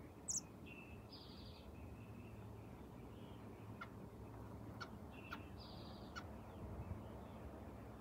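Faint high-pitched bird calls: a brief chirp near the start, then two short buzzy notes about four seconds apart. Light clicks and rustles come from an American robin moving in its nest among the hatchlings.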